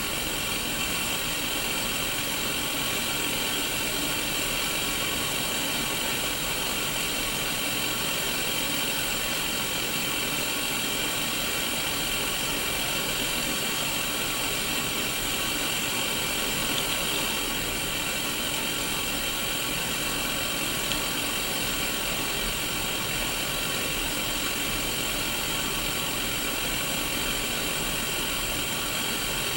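Static from an untuned Sony Mega Watchman black-and-white CRT portable TV: a steady, unbroken hiss of white noise through its small speaker.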